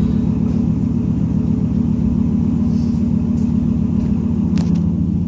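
Borla S-Type aftermarket exhaust on a 2020 Ram Limited pickup, engine running at a steady speed with a deep rumble, with a brief click about four and a half seconds in.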